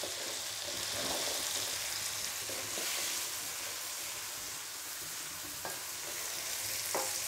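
Oil sizzling steadily in a wok as petai (stink beans) are tipped into frying shallots, tomato and chilli and stirred with a metal spatula. A few light knocks and scrapes of the spatula against the pan.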